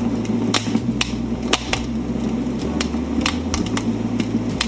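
Recorded crackling wood fire played through a small speaker: irregular sharp pops and snaps over a steady low rumble.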